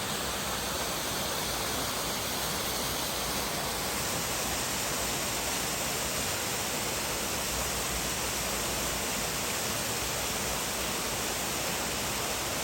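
Steady rushing of a large waterfall: an even, unbroken noise with no pauses.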